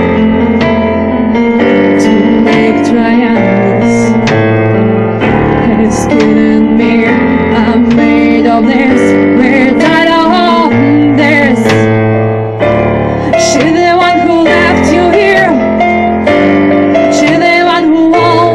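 A band playing a song: keyboard chords and bass notes, regular percussive hits, and a woman singing, her voice clearest in the second half.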